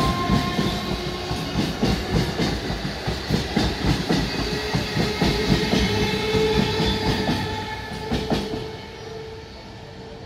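Electric suburban local train (EMU) running past close by, its wheels clattering irregularly over rail joints and points, with a steady whine underneath. The sound fades a little over a second before the end as the train pulls away.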